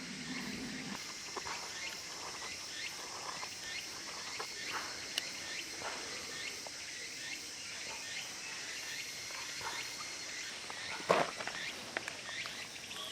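A steady high chorus of insects in the background, with scattered small rustles and clicks and a louder scuff about eleven seconds in.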